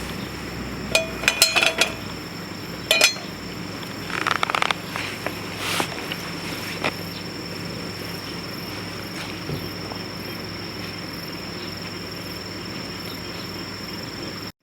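A handful of sharp metallic clinks and knocks, some with a brief ring, mostly in the first few seconds, as metal camp cookware or the stove is handled. Under them a steady, high-pitched insect drone.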